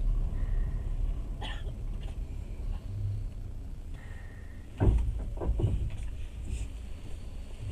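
Passenger train carriage rolling slowly with a low steady rumble. There is a single knock about a second and a half in, then a quick cluster of knocks and clanks about five seconds in.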